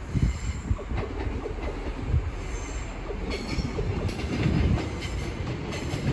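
Class 345 electric multiple unit pulling into the platform: a steady low rumble of the train on the track, with brief high wheel squeals a few times.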